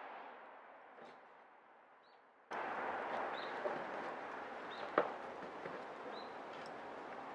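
Wood fire burning: a quiet stretch, then from about two and a half seconds in a louder hiss of flames with scattered crackles and one sharp pop of burning wood near the middle. Small birds chirp faintly now and then.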